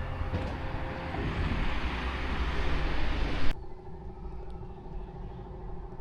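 Vehicle running, a steady rumble with noise; about three and a half seconds in it cuts off suddenly to a quieter steady hum.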